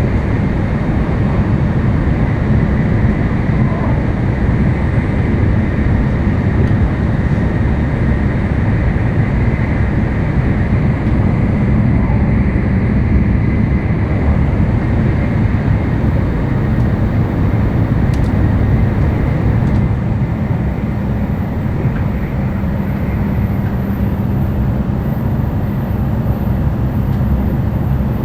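Running noise of a Tokaido Shinkansen N700-series train at speed, heard inside the passenger car: a steady low rumble with a faint high tone running above it.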